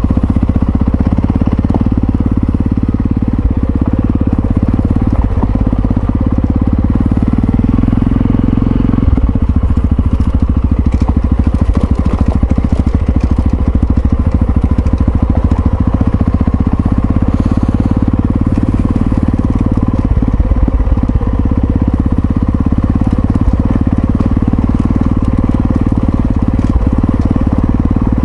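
Yamaha XT660Z Ténéré's single-cylinder engine running steadily as the motorcycle is ridden, a loud continuous low drone.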